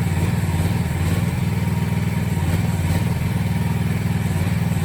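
Small engine of a budget mini excavator running steadily under hydraulic load, a low, even engine note.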